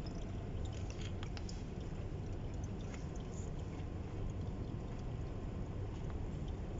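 Used engine oil pouring steadily out of a 2008 Toyota Camry's oil pan into a catch container during an oil change, with a few faint metallic clicks about a second in.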